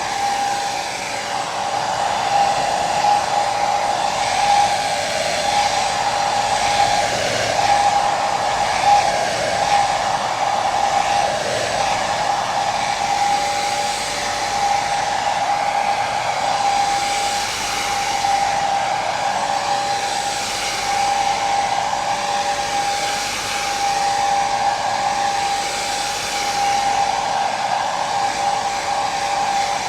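Hair dryer running continuously: a steady rush of blown air under a constant motor whine, wavering slightly in level.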